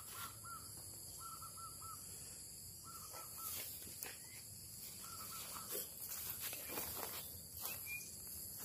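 A bird calling in short runs of three or four quick, clear notes, repeated four times over the first five seconds or so.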